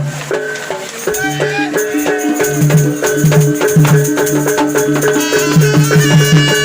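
Live jaranan accompaniment: a gamelan-style ensemble playing a fast, steady rhythm of repeated tuned notes, with percussion strikes and a rattling shaker sound throughout.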